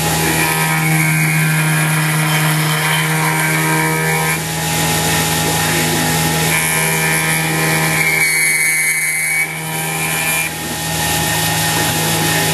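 Mini milling machine (X2) spindle running with a steady hum while an end mill cuts 6061 aluminum. A high cutting whine comes and goes as passes are made, breaking off briefly about four seconds in and again near the ten-second mark.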